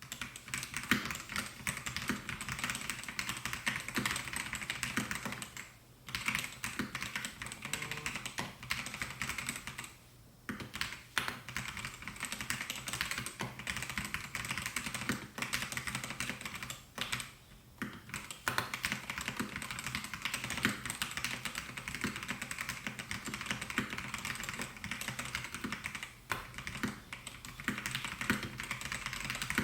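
Continuous fast typing on a Melgeek Mojo68 mechanical keyboard with white Pro switches: a dense clatter of keystrokes, broken by a few brief pauses.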